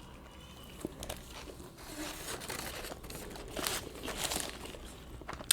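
Food wrapping crinkling and rustling in bursts as it is handled, with a sharp click near the end.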